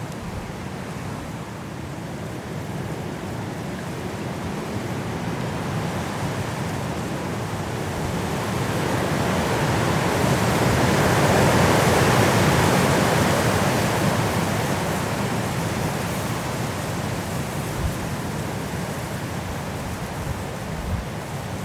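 High wind blowing through forest trees in a snowstorm. It builds to a strong gust about halfway through and then eases off.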